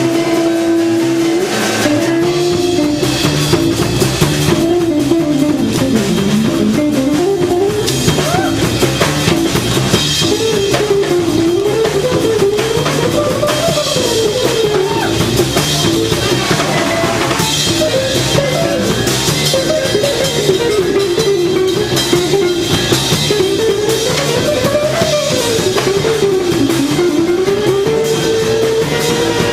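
Jazz quintet playing live: drum kit and guitar under a melody line. The melody holds one note for about the first second, then keeps bending slowly up and down in pitch.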